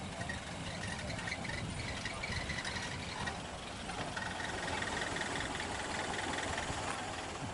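A vehicle engine idling steadily with some rattle. Faint high tones come and go over it.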